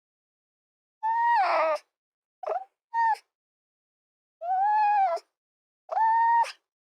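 An animal calling: five high-pitched, drawn-out cries, each under a second, with silent gaps between them.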